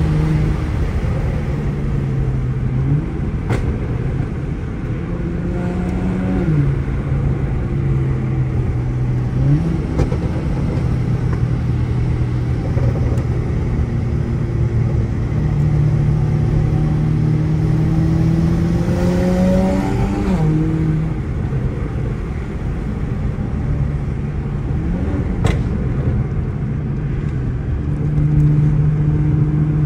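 Tuned, straight-piped twin-turbo 3.0-litre inline-six (N54) of a 2008 BMW 535i, heard from inside the cabin while driving. The engine note climbs slowly and then drops or jumps suddenly at several gear changes, and there are two brief clicks.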